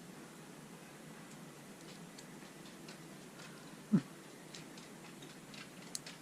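Small metal RC drive-shaft parts clicking and tapping together as they are handled and worked into place, with one louder knock about four seconds in.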